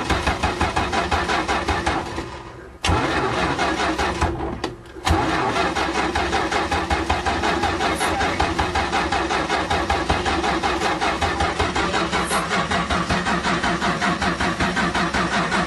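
Car engine cranking on its starter without catching, in long, evenly pulsing bursts with two brief breaks about two and four and a half seconds in: a hard-starting engine.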